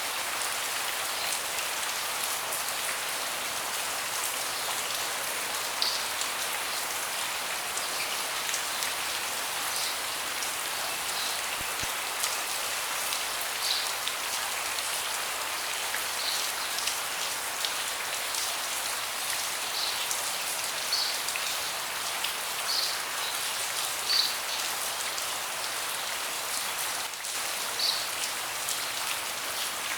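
Steady rain falling on a deck, a constant hiss with scattered louder single drops striking here and there.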